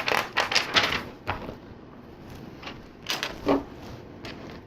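Plastic LEGO bricks clicking and clattering as they are handled and pressed together: a quick run of clicks in the first second or so, then two more clicks a little after three seconds.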